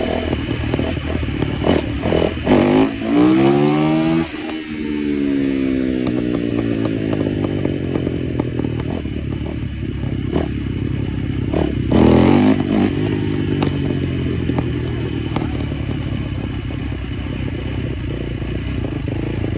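Small motorbike engine running, revving up hard about two seconds in, its pitch climbing and then falling away, with a second burst of revs about twelve seconds in.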